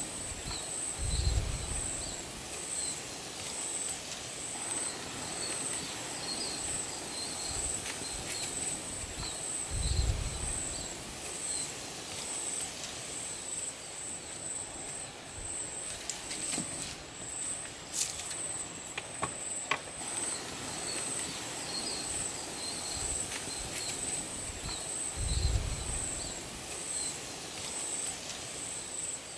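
Forest ambience: insects keep up a steady, very high pulsing chirp, with scattered fainter chirps above it. Three dull low thumps come about a second in, about ten seconds in and near the end, and a few light clicks fall in the middle.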